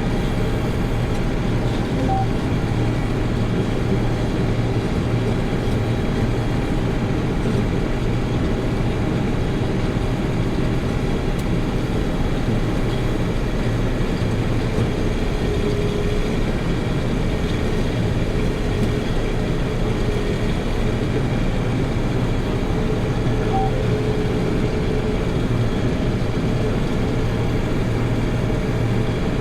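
Combine harvester running steadily while harvesting soybeans: a constant engine and machinery drone.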